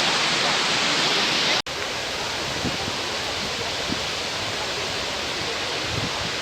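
Waterfall rushing, a steady wash of falling water. It cuts out for an instant about a second and a half in, then carries on a little softer.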